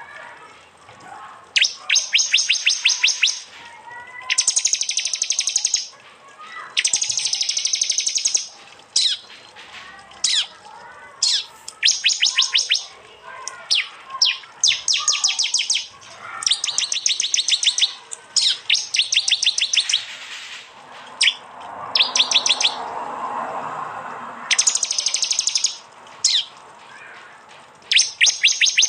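Prenjak (prinia) 'tembakan' calls: bursts of rapid, sharp, high chirps, each lasting a second or two, repeated with short gaps and scattered single notes between them.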